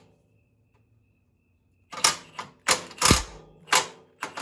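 Near silence for about two seconds, then a string of about seven sharp, irregular metal clicks and knocks, one of them with a low thud and a brief ring, as tools and parts are handled during work on bolted metal.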